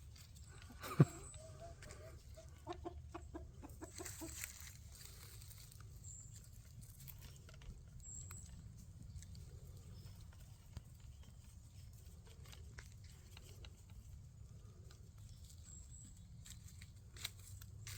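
A sharp, loud sound with a quickly falling pitch about a second in, followed by a quick run of short, repeated animal calls, like clucking, until about four and a half seconds in.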